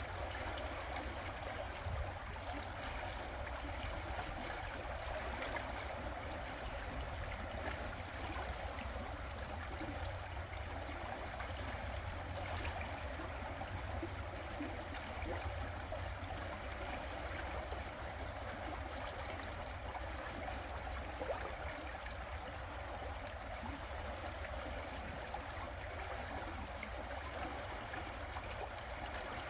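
River water running over stones, a steady rushing and gurgling with a constant low rumble beneath it.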